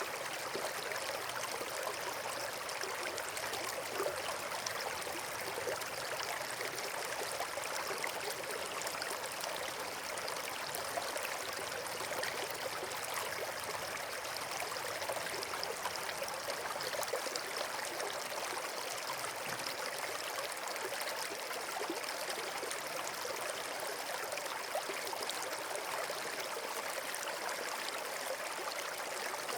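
Flowing water rushing steadily, with occasional faint clicks on top.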